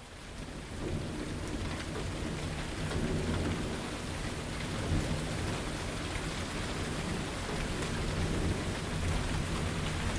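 Steady rain falling, with a low rolling rumble of thunder underneath; the sound fades in over the first second.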